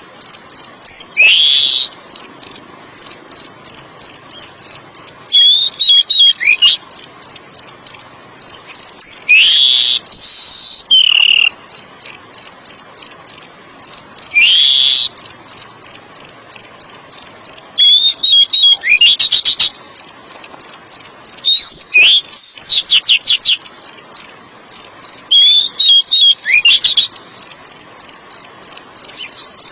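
Oriental magpie-robin (kacer) singing short, loud whistled phrases with sweeping notes, about seven in all, a few seconds apart. Behind them a cricket chirps steadily in a rapid, even pulse.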